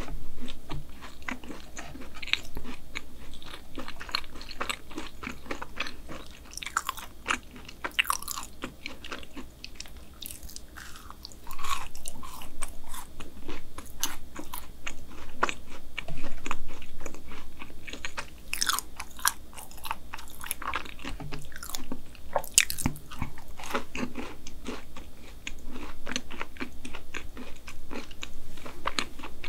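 Close-miked chewing and biting of a double chocolate chip brownie: a steady stream of small mouth clicks and crackles, growing louder about twelve seconds in.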